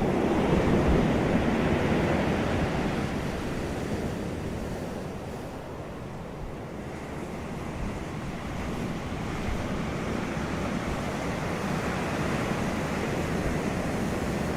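Wind blowing in a steady rush that is strongest at the start, eases off about six seconds in, then builds again and holds.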